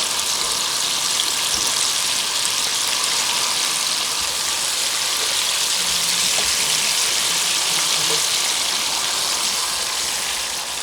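Chicken browning in a hot pot, a steady sizzle of frying.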